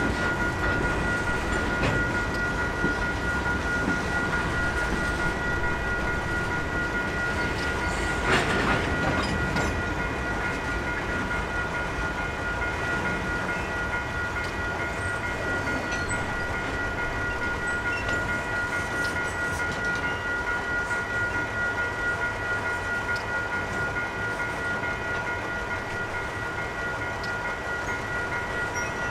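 Freight train rolling past on jointed rail: a steady rumble of wheels and cars, with two high steady tones sounding over it throughout and one louder knock about eight seconds in.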